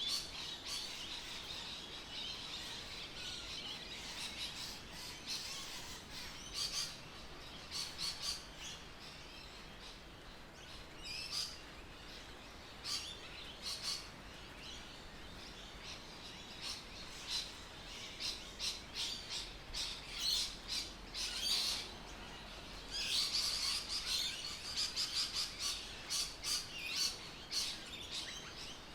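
Birds chirping in quick runs of short high chirps, with quieter gaps between, busiest near the end.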